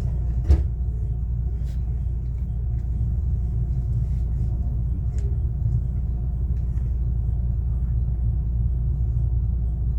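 Cabin running sound of a JR West 125 series electric railcar with a Toyo IGBT inverter: a steady low rumble of wheels and running gear at an even speed, with faint steady motor tones above it. A single sharp knock comes about half a second in.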